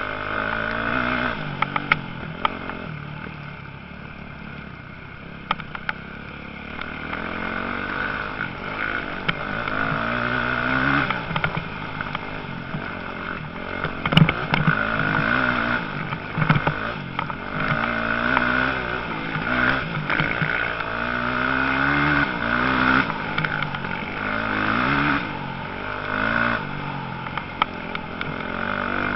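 Motocross bikes racing, their engines repeatedly revving up and dropping back as riders accelerate and back off, with several sharp knocks, one loud one about halfway through.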